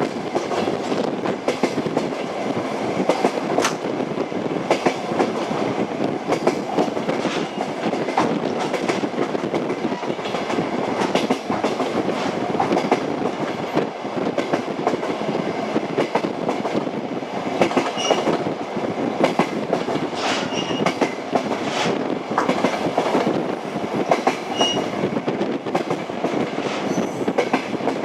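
Moving passenger train: a steady rumble of the carriage with the clatter of wheels knocking over rail joints, and a few short high squeaks in the second half.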